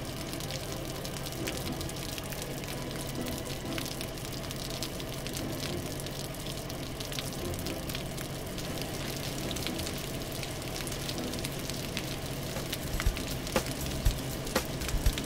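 Steady hissing spray of water from a cartoon fire truck's water cannon as it douses a fire, with a few sharp thumps near the end.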